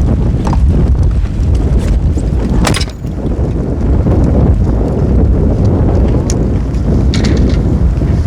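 Strong gusting wind buffeting the microphone as a loud, rough low rumble, with a few brief clicks and rattles, the sharpest about three seconds in.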